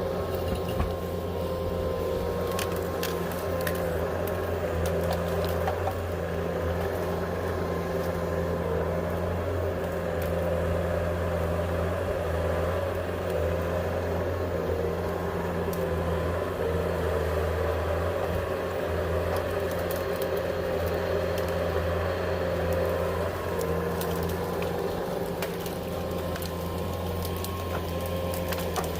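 An engine running steadily at a constant speed, with a few light knocks.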